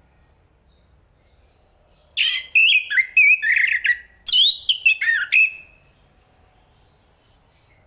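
Chestnut-capped thrush singing two quick phrases of varied, sliding whistled notes, the first about two seconds in and the second just after it.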